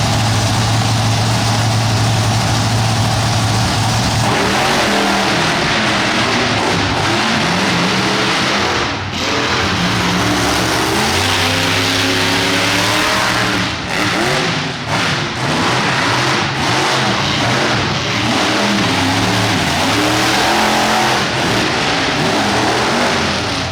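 Monster truck engine running loud and steady, then revving up and down repeatedly from about four seconds in, with a few brief drops in power.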